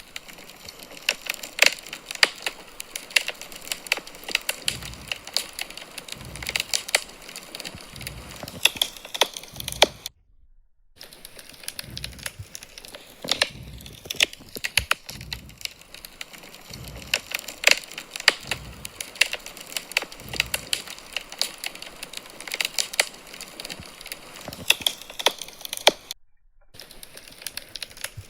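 Wood fire in a fireplace crackling, with many sharp crackles and occasional soft low pops over a low hiss. The sound drops out briefly twice, about ten seconds in and near the end.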